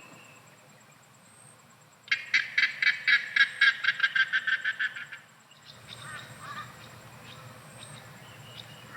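An animal calling in a fast, loud train of sharp pulses, about six a second, lasting some three seconds. Fainter repeated chirping calls follow.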